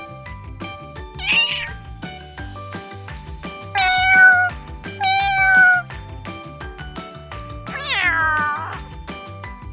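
Domestic cat meowing four times over background music with a steady beat; the two middle meows are the loudest, and the last one slides down in pitch.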